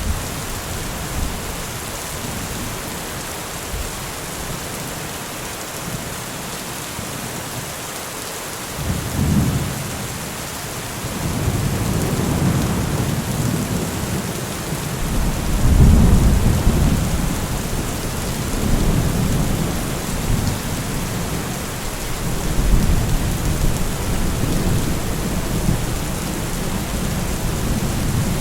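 Steady heavy rain hissing, with low rolling thunder rumbling in about a third of the way through, swelling to its loudest near the middle and rumbling again a few more times toward the end.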